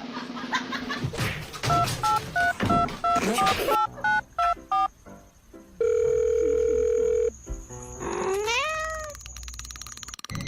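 A quick run of short electronic beeps, then a steady tone held for about a second and a half, then one cat meow that rises and falls in pitch.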